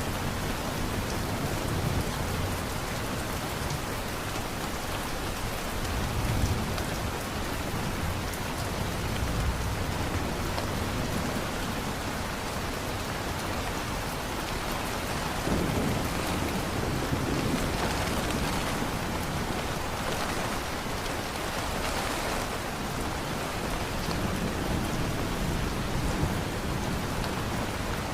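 Steady heavy rain, with low thunder rumbling in the background several times.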